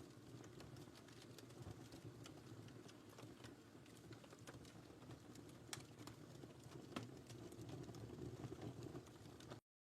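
Wood fire crackling: a faint steady low rumble of burning with irregular small pops and snaps, two of them louder a little past the middle. The sound cuts out abruptly at the very end.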